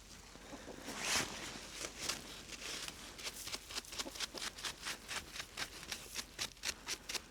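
Dry straw and packed snow being picked and scraped out of a coop door's track by hand: rustling and crackling strokes, sparse at first, then a quick run of about three or four scrapes a second in the second half.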